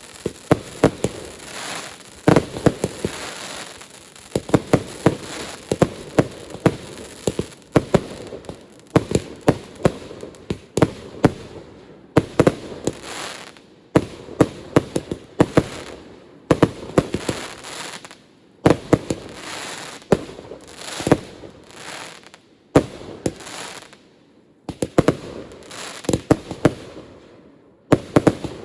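Fireworks display: rapid volleys of sharp bangs in tight clusters, one cluster every second or two with short pauses between them.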